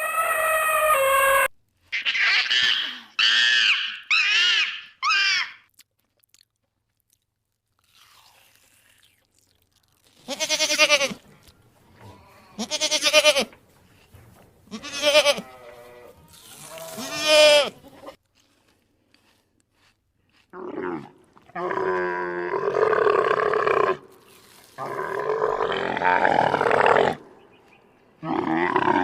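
A series of animal calls: about four short wavering calls, a pause, then five longer pitched calls, and near the end two long, rougher calls.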